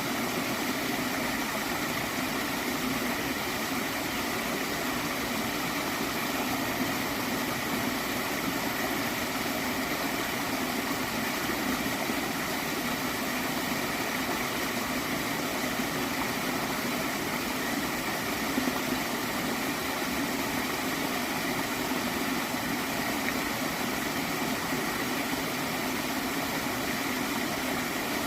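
Small water stream flowing and gurgling steadily.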